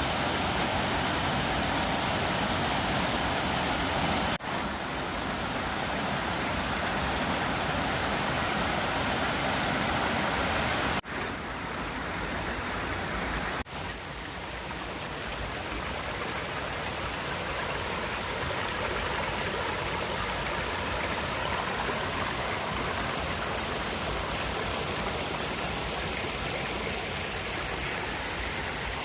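Water rushing at Jinba Falls, a steady even rush of falling and flowing water. It breaks off for an instant about 4, 11 and 14 seconds in, and its tone shifts slightly after each break.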